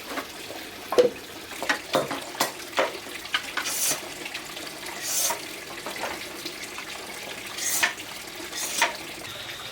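Water splashing in short bursts, with scattered clicks and knocks.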